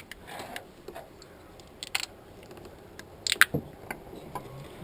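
Scattered light clicks and sharp clinks of hand tools and small engine parts being handled, the loudest cluster about three and a half seconds in.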